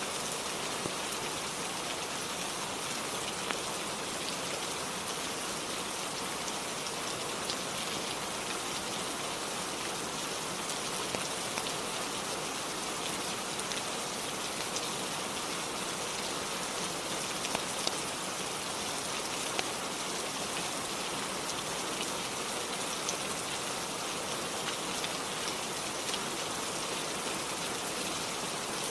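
Steady rain falling, with scattered sharp ticks of single drops over an even hiss.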